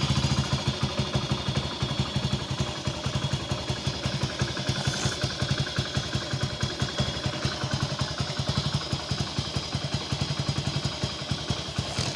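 Hero Passion Plus motorcycle's small single-cylinder four-stroke engine idling with a steady, rapid putter, just after an engine oil change; its idle speed is set low.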